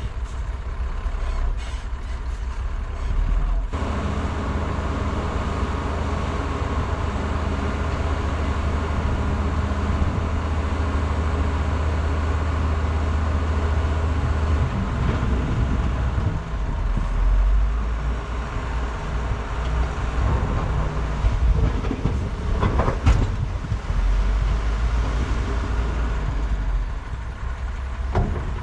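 Heavy diesel construction machinery running steadily, the low engine note of excavators and dump trucks working rock. The engine tone changes about halfway through, and a few short knocks come about two-thirds of the way in.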